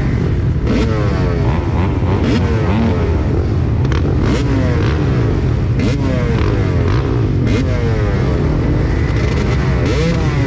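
Several motocross motorcycles racing, their engines revving up and falling back again and again, overlapping one another.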